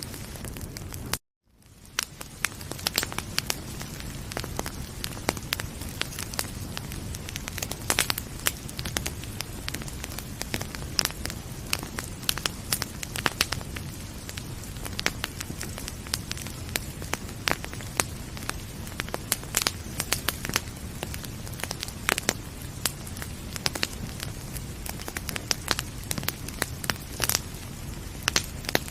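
Wood fire crackling, with frequent sharp pops and snaps over a steady low hiss and rumble. About a second in, the sound cuts out completely for a moment and then fades back in.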